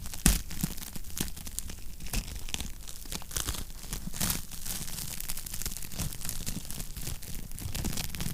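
Wood fire in a fireplace crackling and popping continually over a low rumble, with a louder pop just after the start.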